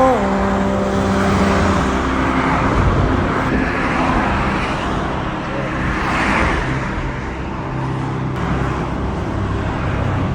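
Road traffic noise with cars passing, swelling and fading a few times. A steady pitched tone runs through the first two seconds.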